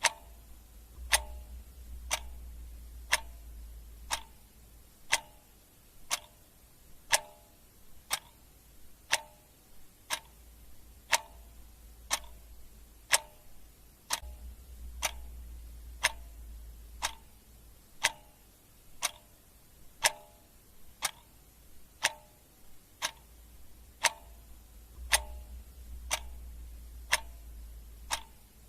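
Clock ticking steadily, about two ticks a second, alternating louder and softer as a tick-tock. A faint low hum comes and goes underneath.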